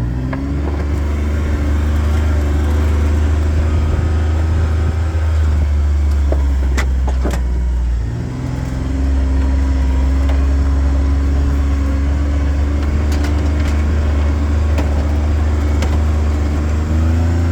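A vehicle's engine runs steadily while driving slowly along a rough dirt road. About eight seconds in it eases off briefly, then picks up again, with a few sharp clicks and knocks along the way.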